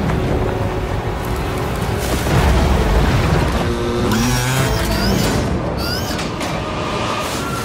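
Action-movie chase mix: a driving music score with heavy low booms, and motorcycle engines revving up and down in pitch in the second half.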